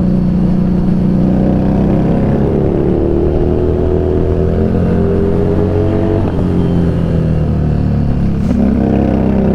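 Harley-Davidson Street Rod 750's V-twin engine running under way, its note sinking slowly, breaking briefly about six seconds in, then climbing again as the throttle is opened.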